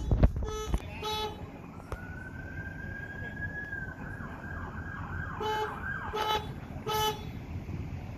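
Emergency vehicle siren winding up to a held tone, then yelping in quick repeated sweeps, with short horn blasts a few times at the start and again near the end. A couple of low thumps come right at the start.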